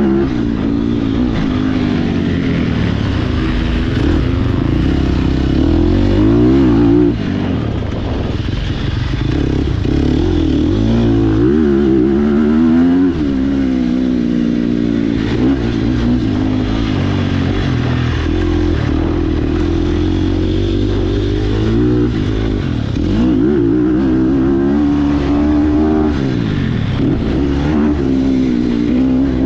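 Sherco SEF300 four-stroke single-cylinder enduro motorcycle ridden hard, its engine revving up and down over and over, the pitch climbing and dropping as the throttle opens and closes.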